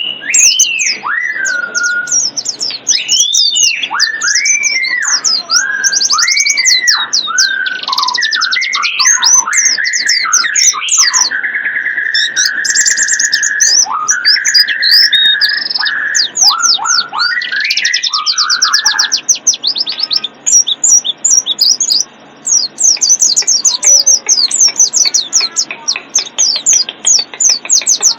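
Bird-lure birdsong: rapid high chirps and twitters throughout, overlaid for the first two-thirds by clear looping whistles that rise and fall, with one long held whistle near the middle. The whistles then stop and only the fast high twittering goes on.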